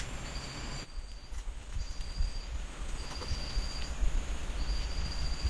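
Outdoor ambience: a high, steady trill repeating in bursts of about a second with short gaps, over a low rumble.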